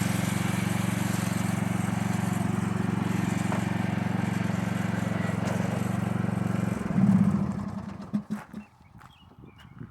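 An engine running steadily with a low drone, swelling briefly about seven seconds in and then dying away; a few faint knocks follow near the end.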